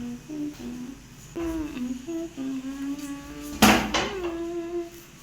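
A person humming with the mouth closed: a string of short, held 'mm' tones that slide up and down in pitch. A sudden loud, noisy burst a little over three and a half seconds in.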